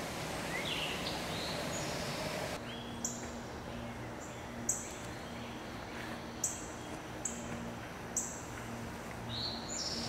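Outdoor ambience with birds chirping: a steady rushing background with a few rising calls, then, after a change in the background about a quarter of the way in, short high chirps every second or two over a faint low hum.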